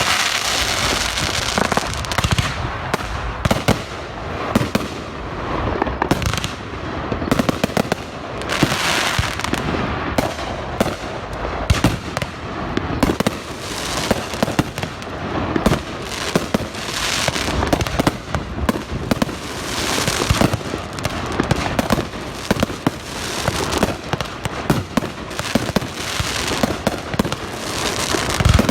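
Fireworks display going off in a dense, unbroken barrage of bangs and pops, with stretches of crackling every few seconds.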